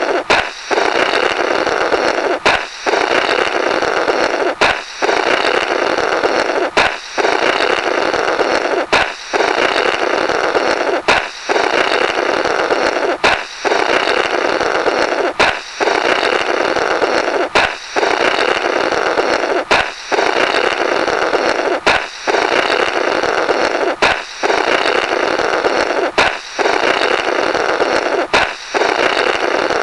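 Cartoon 'Blorrrt' sound effect repeating about every two seconds: a balloon pops with a sharp snap, then a raspy, flapping blow through the burst rubber follows. It repeats about fourteen times.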